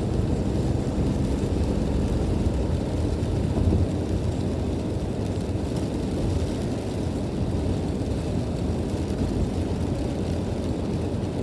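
Steady low rumble of a car driving on a rain-wet highway, heard from inside the cabin: tyre and engine noise.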